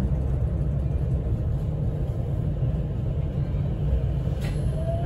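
Interior sound of a JR West 225 series 5000 electric multiple unit: a steady low rumble. Near the end there is a short sharp click, followed by a faint tone that begins to rise.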